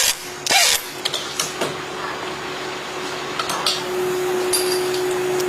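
A steady machine hum holding one pitch, a little louder from about four seconds in, with scattered clicks and knocks and two short hissing bursts in the first second.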